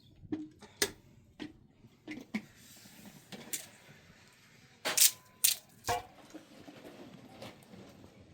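Irregular clicks and knocks, a few every second or two, the loudest a quick cluster of three about five to six seconds in.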